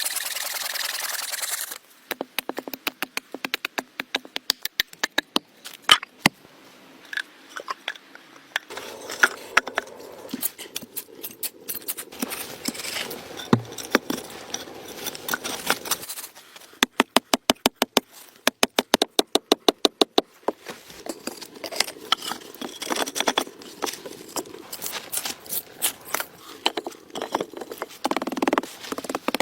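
Hand construction work: a run of sharp knocks, taps and scrapes as materials are handled and worked. About two-thirds of the way through comes a fast, even tapping of roughly five strikes a second.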